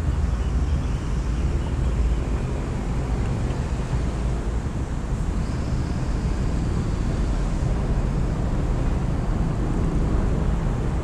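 Steady low outdoor rumble, with a few faint, high bird calls over it now and then.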